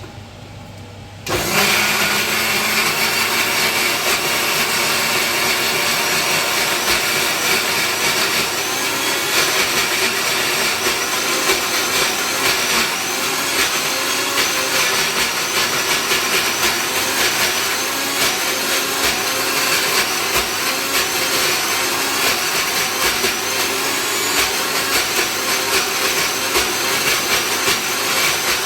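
Electric mixer grinder (mixie) switched on about a second in and running steadily.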